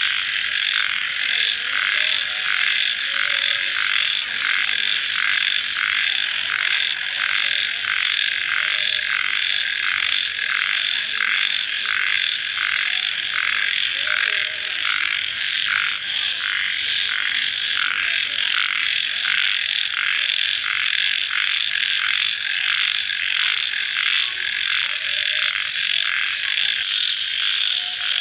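Dense night chorus of calling animals after rain: a steady high-pitched trilling mass that pulses about twice a second without a break.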